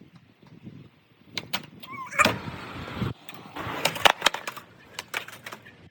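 Skateboard wheels rolling over wet pavement with a hiss, broken by a run of sharp clacks and knocks from the board.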